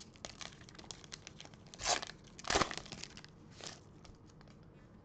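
Trading cards and a pack wrapper being handled: crinkling and rustling, with two louder bursts about two and two and a half seconds in.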